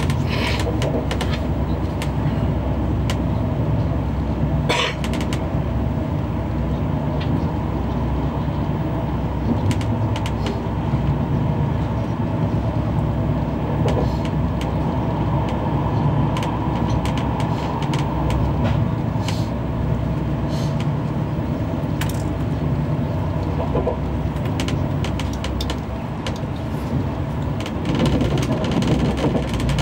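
Running noise inside a CP Class 4000 Alfa Pendular tilting electric train: a steady low rumble of wheels on the track, with a few sharp clicks.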